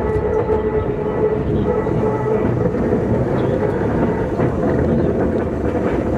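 Running sound inside a Keikyu 2000 series electric multiple unit car (DeHa 2052) at low speed: rumble of wheels on track with a steady hum from the traction motors that fades out about two and a half seconds in.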